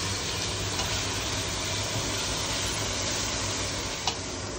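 Onions and tomatoes sizzling steadily in oil in a steel pot as they are sautéed and stirred with a wooden spatula, over a low steady hum. A light tap about four seconds in.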